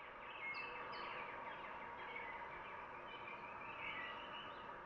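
Many birds chirping and calling together, short quick notes overlapping over a light steady hiss.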